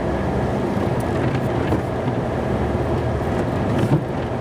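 A snow-plow truck's engine running steadily at low speed, heard from inside the cab, with a single short knock near the end.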